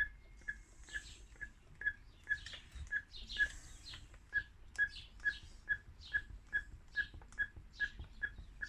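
Rubber primer bulb on a Spear & Jackson chainsaw carburettor squeaking as it is pressed over and over, about two presses a second. The saw is not priming: the bulb is still pulling air bubbles through the fuel line.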